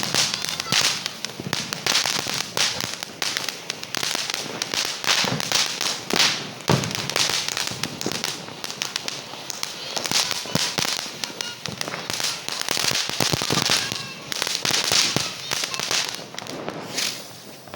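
Diwali firecrackers going off in a rapid, irregular string of sharp cracks and bangs that keeps up throughout.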